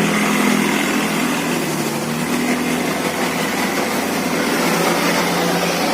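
Engines of river boats running steadily as the boats pass, a continuous drone over a wash of noise.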